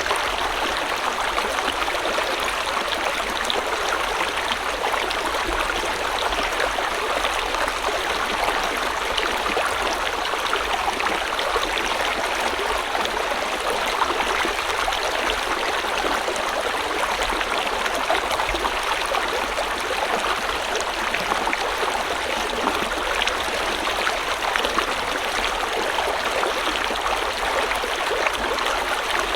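A stream or small river flowing steadily over rocks: a constant rushing and splashing of water with no change throughout.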